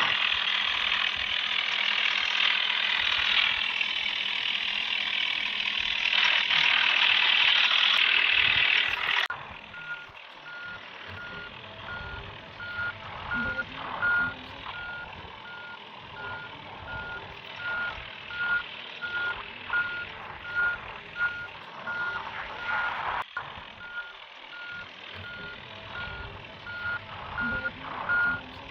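A loud steady rushing noise for about nine seconds cuts off suddenly. A vehicle's reversing alarm then beeps evenly, about one and a half beeps a second, over a quieter engine running.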